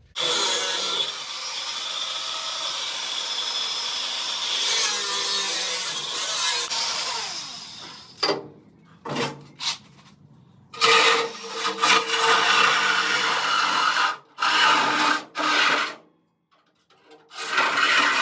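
Power tool cutting through rusty sheet-steel car floor panels. It runs steadily for several seconds, then cuts in and out in short bursts with brief pauses.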